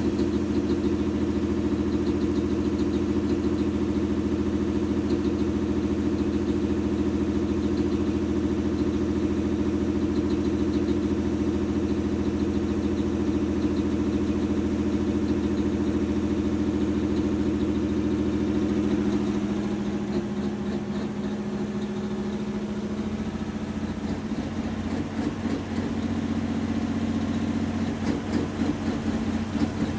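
Super stock diesel tractor engine running steadily. About two-thirds of the way in it drops in level and its note changes, then it grows louder and uneven again near the end.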